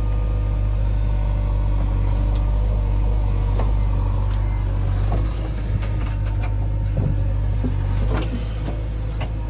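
Heavy diesel engine running steadily under load, with several sharp knocks and clanks over it.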